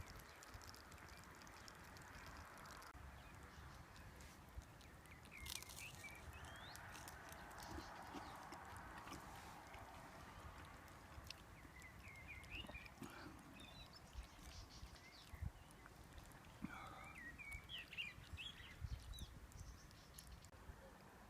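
Near silence in the open air, with a few faint bird chirps now and then.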